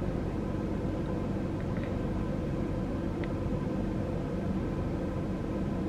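Steady hum and hiss inside a parked car's cabin with the engine idling, broken only by a couple of faint ticks.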